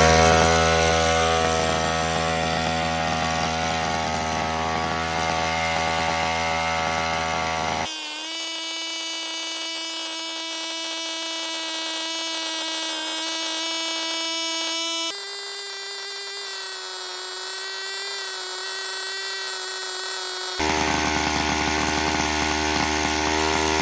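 Small Chinese dirt bike engine running flat out at a steady high pitch while being run to destruction. The tone and loudness change abruptly three times where the recording cuts between takes or microphones.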